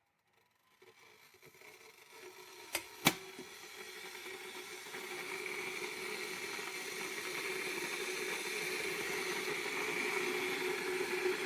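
Electric kettle heating water: a hiss that swells over the first few seconds and then holds steady as the water warms toward the boil. Two sharp clicks come about three seconds in.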